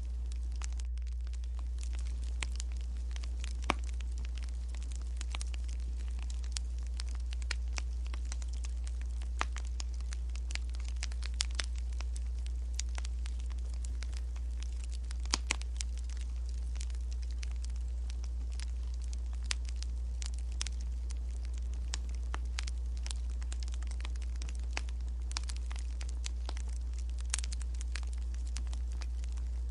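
Burning firewood crackling, with sharp pops at irregular intervals over a steady low hum.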